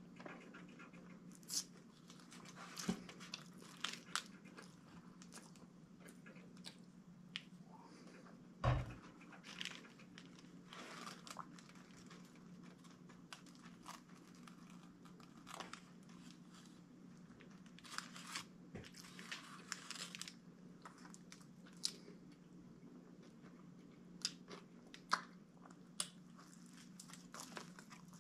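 Faint close-up eating: a man biting and chewing a sub sandwich, with scattered small clicks and rustles of sandwich paper. A dull thump about nine seconds in is the loudest sound, over a steady low hum.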